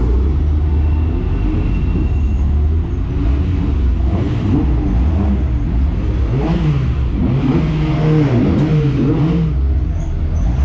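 A vehicle engine running with a heavy low rumble, its revs rising and falling several times, most clearly in the second half.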